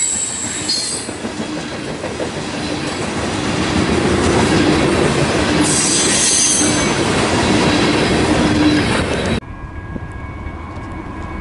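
Freight train of tank cars rolling past close by: a steady rumble and clatter of wheels on rail, with high-pitched wheel squeals near the start and again about halfway through. About nine seconds in it cuts off suddenly to a much quieter, steady hum.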